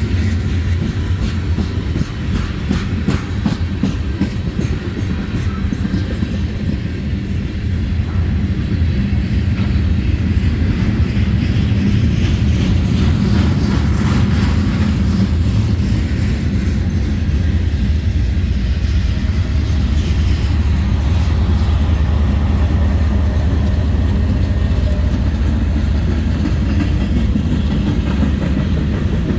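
Freight cars of a manifest train rolling past: a steady, loud low rumble with wheels clicking over rail joints.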